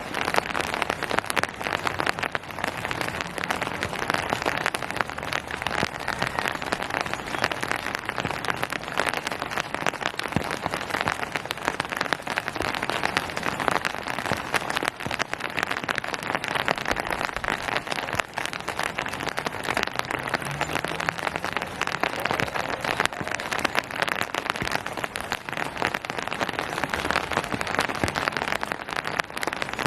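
Steady rain pattering on a hard surface: a dense, even patter of countless drops.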